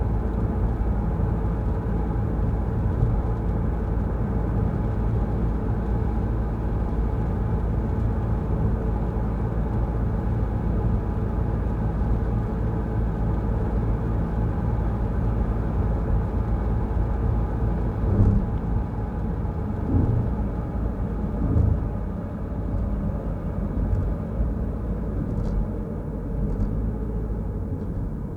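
A car driving on a wet road: a steady rumble of tyres and engine, with a few short thumps a little past the middle.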